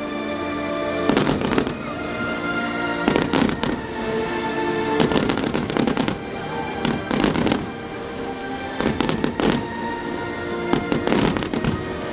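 Fireworks going off in repeated volleys of sharp bangs and crackling, a fresh volley about every two seconds, over steady background music.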